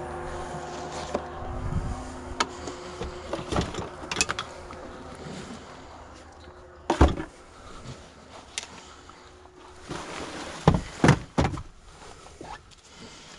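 Knocks and clunks of fishing gear being packed up and handled, with a few sharp thuds: the loudest about seven seconds in and three close together near the end. A steady hum sounds through the first few seconds, then fades.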